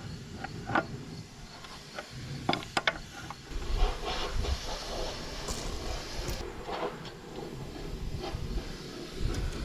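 Scattered metal clicks and clinks of a wrench and steel hydraulic fittings being worked as hoses are tightened onto the excavator thumb circuit, with a low rumble about midway.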